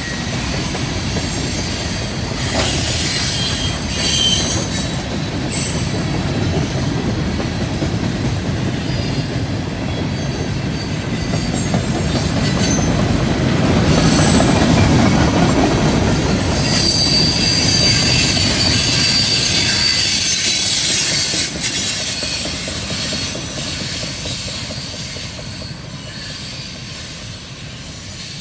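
Freight train's gondola cars rolling past, with steel wheels rumbling and clattering on the rails and a high wheel squeal a little over two-thirds of the way in. The noise fades over the last few seconds as the end of the train passes and it moves away.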